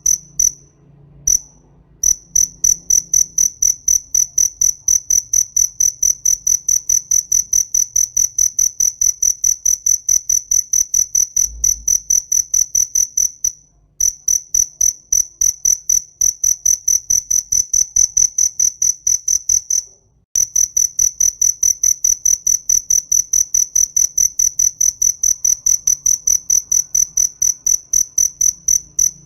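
Cricket chirping: a fast, even train of high-pitched pulses, a few isolated chirps at first and then steady from about two seconds in, broken twice by brief pauses.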